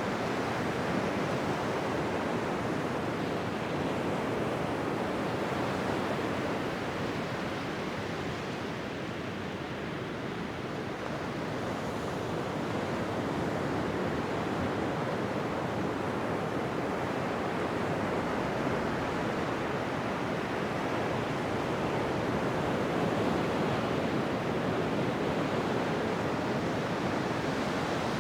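Ocean surf: waves breaking and washing on a beach as a steady rushing noise that eases a little about a third of the way in and then builds again.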